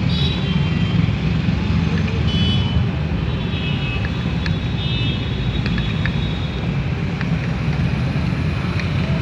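Steady rumble of road traffic, with a few short high tones and scattered light metallic clicks as the clutch cover bolts are tightened with a hand tool.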